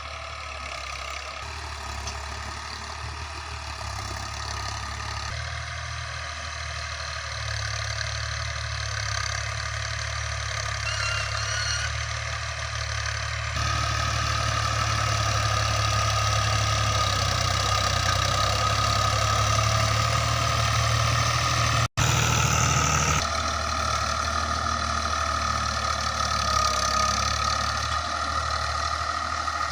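Al-Ghazi tractor's diesel engine running steadily while pulling a chisel plough, growing louder over the first half. The sound shifts abruptly several times and drops out for an instant about two-thirds of the way through.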